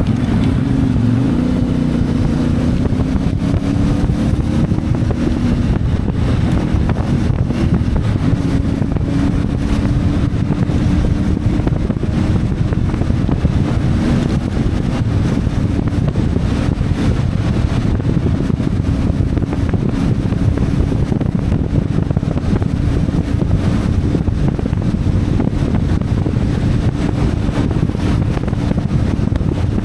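CF Moto 450MT motorcycle's parallel-twin engine running under way, its note shifting in pitch in the first few seconds and then holding steady, with wind buffeting the microphone.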